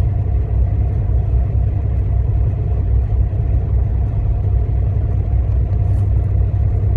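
Semi truck's diesel engine idling: a steady low rumble that is loud enough to drown out speech.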